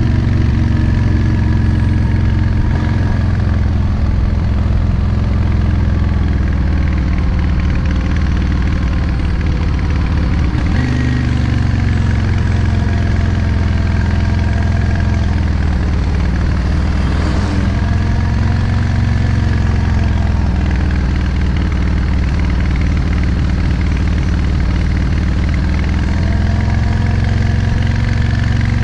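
Yamaha Drag Star 650's air-cooled V-twin engine running at a steady pace under way. Its pitch drops sharply and briefly about ten seconds in, then sags and climbs back up again around the middle.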